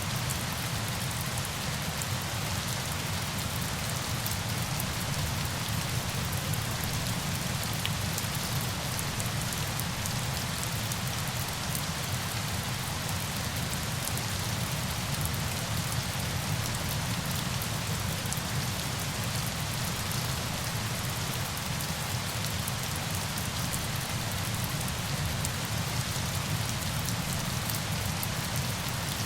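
Steady falling-water ambience, rain or a waterfall: an even hiss over a low rumble that does not change.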